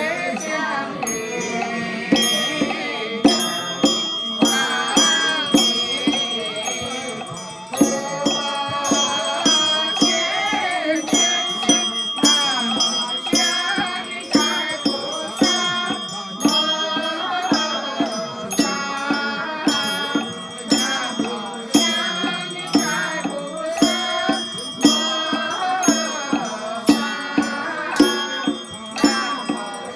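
Group scripture chanting sung to a melody, with a percussion strike keeping time about once a second and bright chime or bell tones ringing over it.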